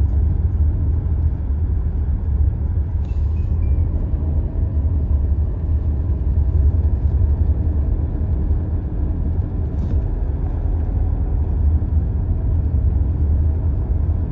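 Steady low rumble of wind buffeting the microphone, mixed with a moving car's road noise.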